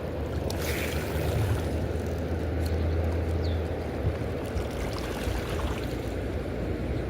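Steady rush of river water below a dam, with a low drone that is strongest in the first few seconds.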